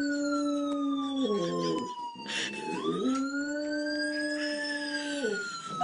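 A dog howling along with a siren: two long, held howls that each drop away at the end, while the siren's wail glides slowly down, then up, then down again.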